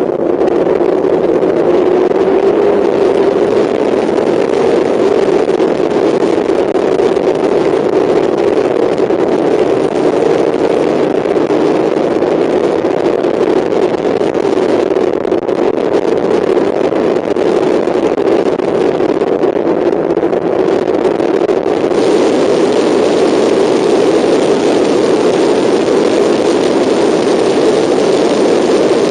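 Mazda MX-5 race car's four-cylinder engine heard on board at racing speed, running loud and steady with slight rises and dips in pitch, over wind and tyre noise. The hiss grows a little stronger about three-quarters of the way through.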